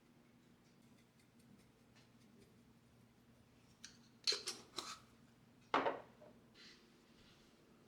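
A faint steady hum, then a few short sharp clicks or snips a little past halfway, the loudest a second or so later.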